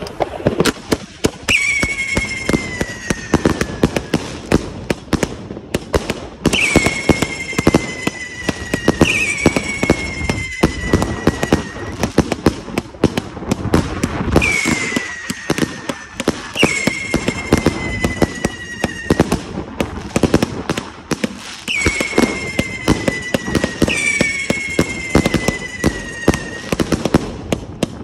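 Consumer firework cake firing: dense, continuous crackling and popping, with whistles every few seconds that each fall in pitch over about two seconds, often two in quick succession.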